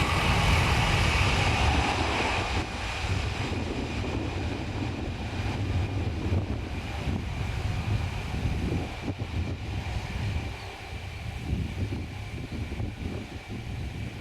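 Jet airliner engines fading away as the aircraft moves off, with a steady whine that lingers. Gusty wind rumbles on the microphone.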